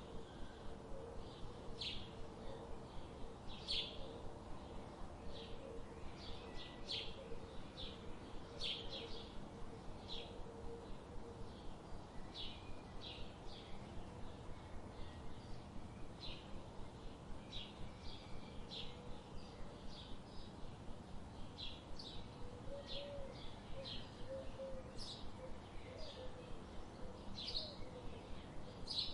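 Small birds chirping: short high chirps, one or two a second, over a steady background hiss, with a faint low hum through the first half.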